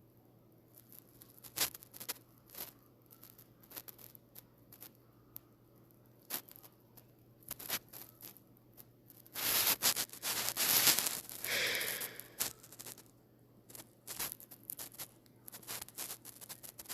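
Scattered rustling and scraping clicks close by, with a louder rustle lasting about three seconds around the middle.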